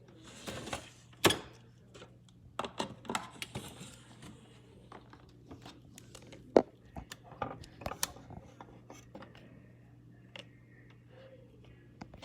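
Irregular clicks, taps and knocks of small hard plastic objects being handled and set down, with a brief rustle about half a second in: LPS toy figures and props being moved about.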